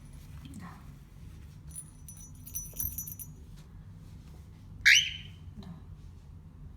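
Hand-raised cockatiel chick giving one short, loud call that rises in pitch, about five seconds in, with a few small clicks around it.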